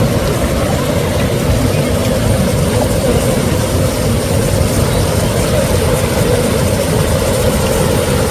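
Waterfall rushing steadily: a loud, even roar of falling water.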